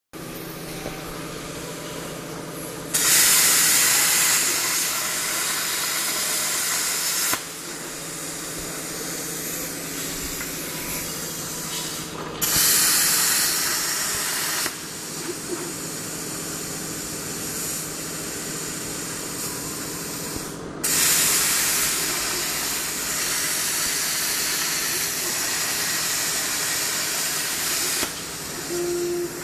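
CNC plasma cutter firing its arc three times, each cut a loud hiss that starts and stops abruptly: about four seconds, then two, then seven. A steady low hum with a few held tones carries on between the cuts.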